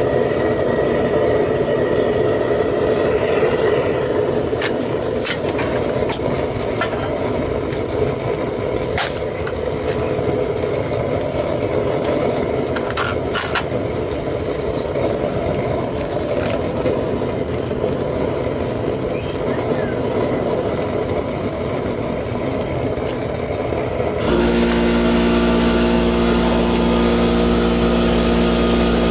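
Propane burner roaring steadily into a homemade melting furnace, with scattered sharp clicks. About 24 seconds in the roar gives way suddenly to a steady, slightly louder mechanical hum with several fixed tones.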